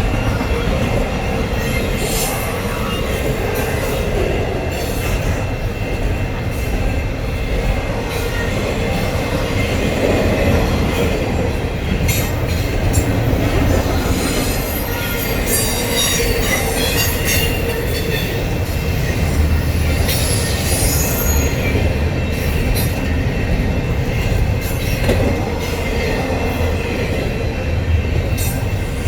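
A very long train of over 200 cars rolling past: a steady rumble of wheels on the rails, with a thin, high wheel squeal and scattered clicks and clanks.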